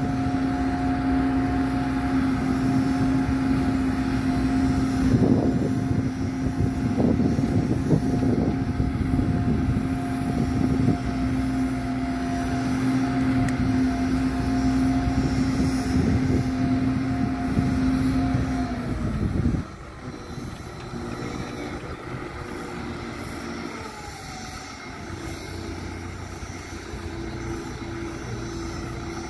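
A motor running with a steady hum, which winds down and stops about two-thirds of the way through; a quieter engine sound carries on after it.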